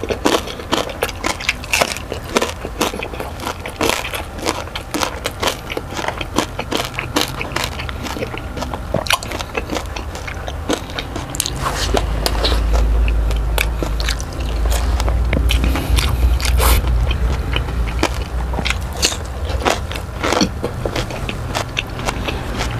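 Close-miked crunching and chewing of crispy deep-fried pork belly (lechon kawali) crackling: a fast, irregular run of sharp crackles and bites. A low steady rumble joins about halfway through and stays under the chewing.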